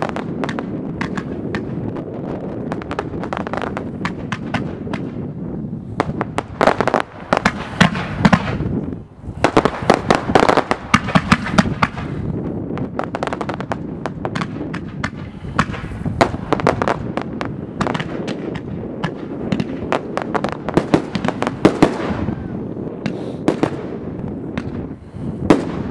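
Professional firework display: rapid, dense volleys of launches, bangs and crackle, with louder clusters of bangs about six seconds in, around ten seconds in, and again from about sixteen to twenty-two seconds.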